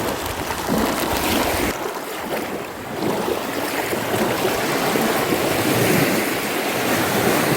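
Strong wind buffeting the microphone over a steady rushing noise, with heavy low rumbling gusts in the first couple of seconds.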